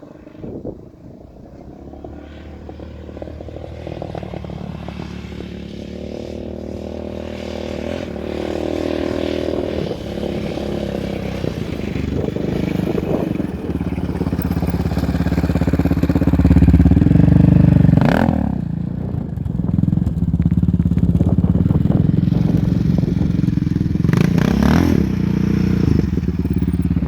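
Yamaha Raptor 700R quad's single-cylinder four-stroke engine, running through a loud aftermarket Empire Industries single exhaust, revving hard under load in sand. It grows steadily louder to a peak about two thirds of the way through, dips briefly, then stays loud to the end.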